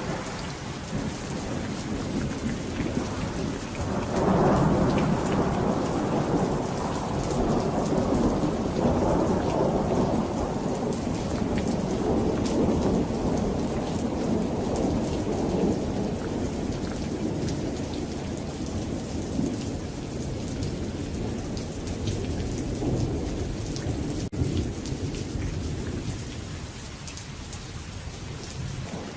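Steady rain pattering, with a long roll of thunder that swells about four seconds in and slowly rumbles away over the next twenty seconds.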